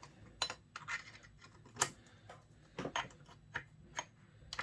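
Irregular metallic clicks and taps of a wrench working the bolts near the carburetor of a McCulloch 1-85 chainsaw, about a dozen spaced unevenly.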